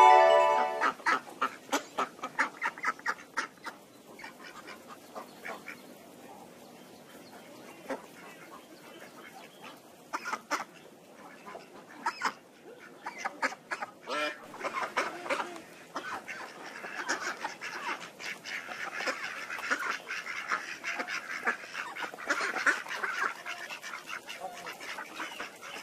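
Ducks quacking: a quick run of loud quacks at first, then scattered quieter calls, then a busier stretch of quacking in the second half.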